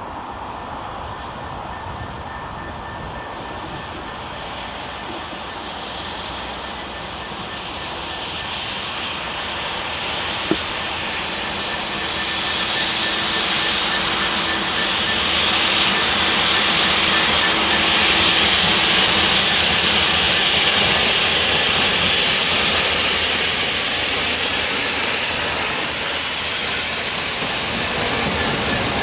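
A train approaching on the main line, its rumble and rail noise swelling slowly and steadily for about twenty seconds, with a faint steady high tone above it.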